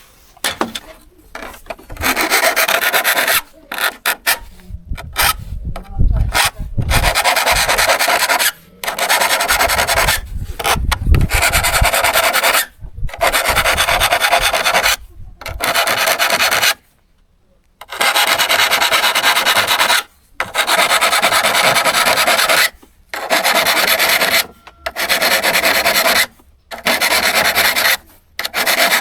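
Hand abrading of a steel hand-saw blade: long, repeated scraping strokes of about one to two seconds each with short pauses between them, and a longer pause partway through.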